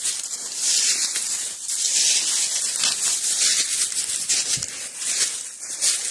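Footsteps and brush rustling and crunching as someone pushes on foot through leaf litter and a briar thicket: an uneven, dry, high-pitched rustle that swells and fades.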